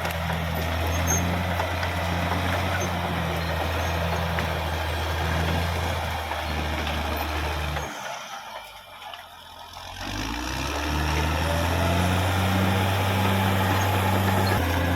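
Caterpillar D6R XL bulldozer's diesel engine running steadily under load; about halfway through it falls away for a couple of seconds, then builds back up and runs steadily again.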